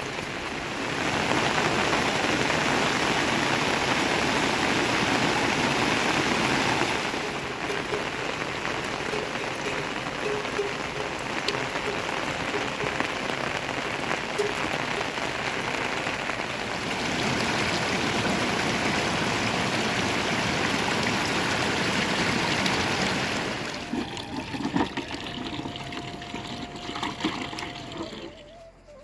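Steady rain falling, harder in two stretches and lighter between, easing off near the end.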